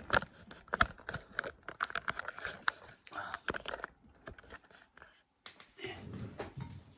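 Hands handling an FPV racing drone and its battery: a quick, irregular run of small clicks, rustles and tearing sounds, a pause, then a short rustle near the end.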